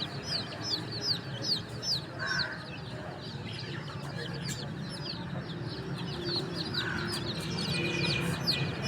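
Baby chicks peeping nonstop: many short, high chirps, each sliding downward in pitch, overlapping at several a second. Two lower, softer calls come through about two and seven seconds in.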